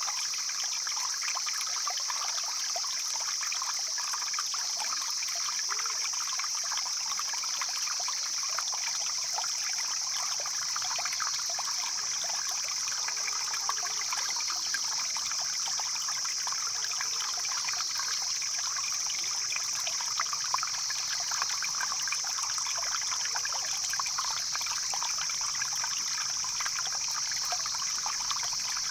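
Stream water flowing and trickling steadily, with a constant high-pitched hiss over it.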